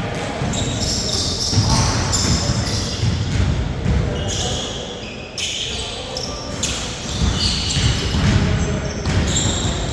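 A basketball bouncing on a court during play, mixed with indistinct players' voices.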